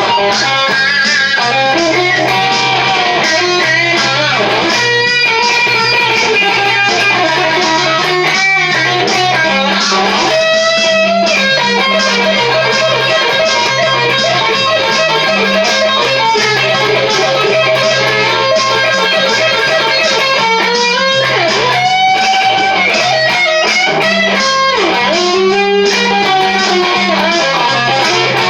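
Charvel DK24 HSS electric guitar playing a lead solo with bent and wavering notes, over a backing of steady bass notes and drums from a DigiTech Trio band-creator pedal.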